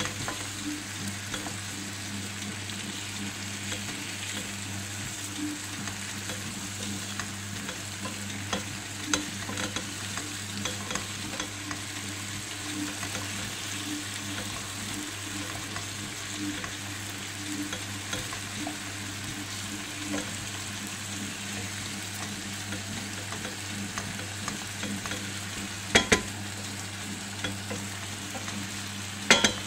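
Chicken pieces and potatoes sizzling steadily as they fry in a pan. Light clicks of a spoon against the pan are scattered throughout, and there are two pairs of sharp knocks near the end.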